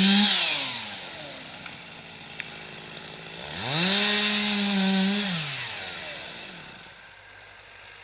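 Two-stroke chainsaw at full throttle, dropping back toward idle within the first second. It is revved up again about three and a half seconds in, held high for under two seconds, then let back down.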